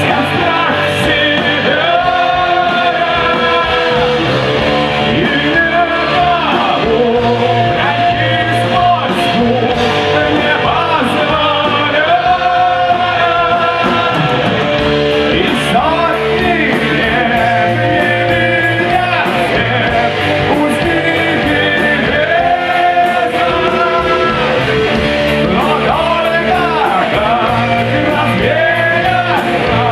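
Rock song played by a full band, loud and steady, with a melodic lead line bending up and down over the accompaniment in repeated phrases.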